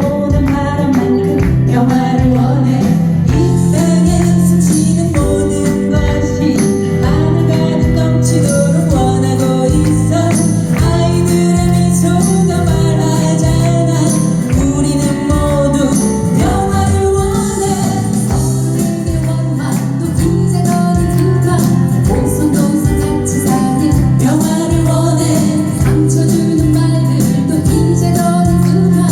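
A pop song sung by several voices over musical accompaniment with a steady beat.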